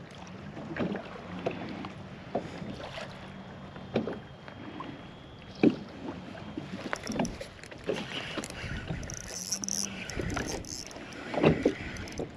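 Small knocks and splashy water sounds around a fishing kayak, scattered irregularly, over a low steady background.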